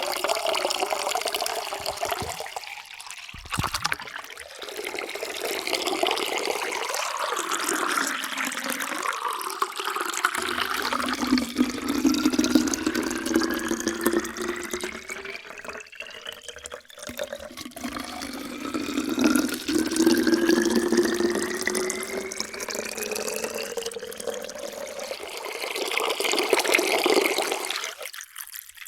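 Water pouring into a container, a steady splashing stream whose pitch rises slowly as the vessel fills, twice in a row. The pour stops just before the end.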